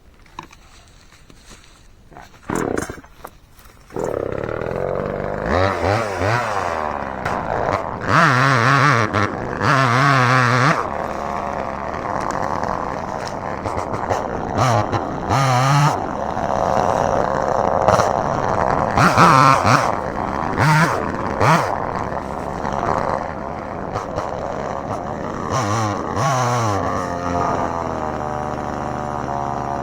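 Gasoline chainsaw starting about four seconds in after a few knocks, then running loudly and revving up and down over and over as it cuts. Near the end the engine note drops away.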